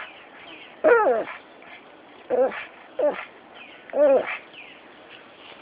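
A pug whining in four short, pitched cries about a second apart, whining for a peanut bird feeder just out of his reach.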